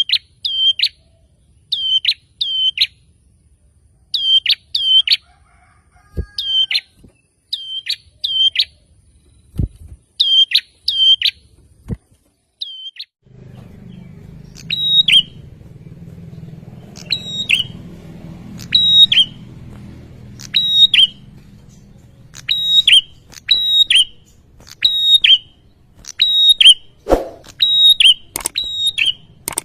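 Male prinia (prenjak) singing: short high notes, each dropping sharply in pitch, mostly in quick pairs and repeated over and over. A low steady hum sits underneath from about halfway.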